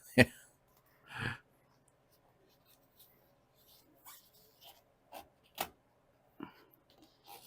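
Scattered short rubs and light taps of foil-backed sound-deadener sheet being pressed and smoothed onto the car's metal floor pan, with a slightly longer scratchy rub about a second in.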